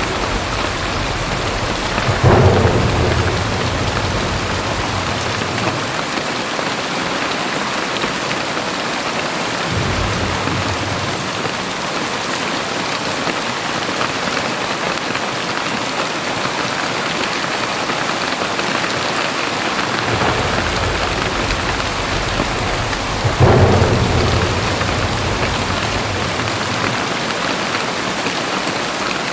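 Heavy rain pouring steadily, with thunder rumbling low underneath and two louder thunder rolls, one about two seconds in and another about three-quarters of the way through.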